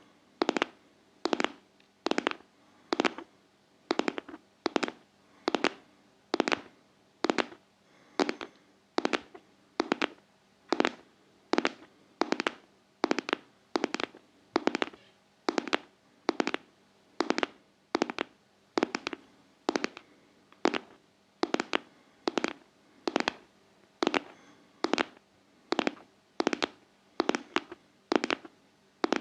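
ASMR heartbeat-style tapping: sharp taps repeated steadily in pairs, like a heartbeat.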